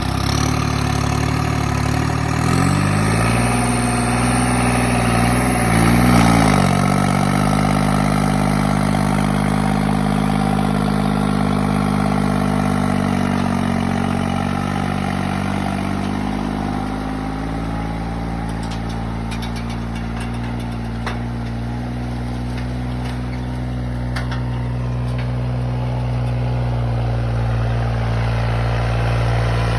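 New Holland tractor's diesel engine running steadily while pulling a heavy five-set disc harrow with 90 discs. The engine's pitch rises a couple of seconds in, sags and recovers around six seconds in, then holds steady, with a few faint clicks in the middle.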